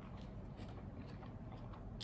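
Chewing of a bite of sourdough bread topped with salad, close to the microphone: faint, irregular soft crunching clicks.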